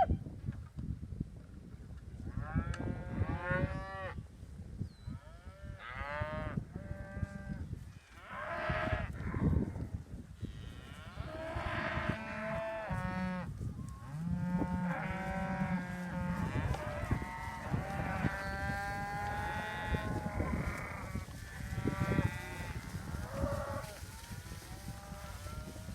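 A herd of cattle, cows and calves, mooing: many separate calls, some deep and some higher, coming thicker and overlapping through the middle.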